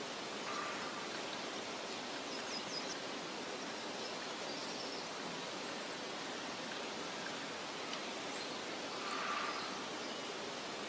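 Steady outdoor nature ambience: an even rushing hiss with a few faint, short, high bird chirps about two to three seconds in.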